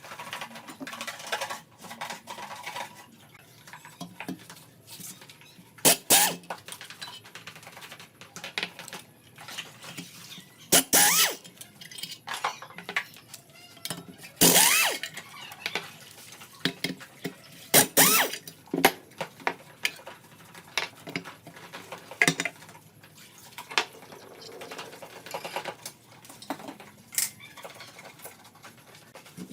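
Small metal parts and hand tools clinking and knocking on a workbench while a car carburetor is worked on: irregular light clatter broken by several sharper, louder knocks.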